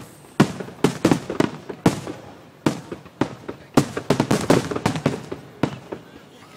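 Aerial firework shells bursting in an irregular series of sharp bangs, several coming in quick clusters, thinning out near the end.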